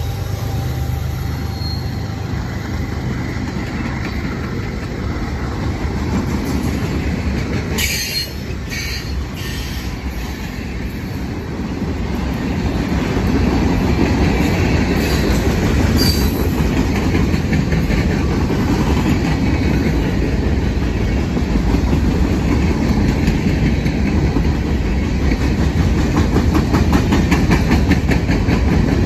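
Freight cars of a long train rolling past: a steady rumble of steel wheels on rail, with a few sharp clicks about eight to ten seconds in and again near sixteen seconds. It grows louder about halfway through, with rapid clickety-clack of wheels over the rail joints in the later part.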